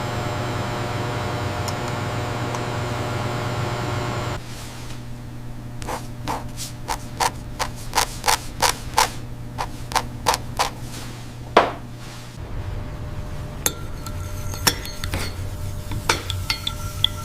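A steady motor hum that cuts off about four seconds in, followed by a run of light, sharp metal taps, about two to three a second. Another hum starts with scattered clinks near the end.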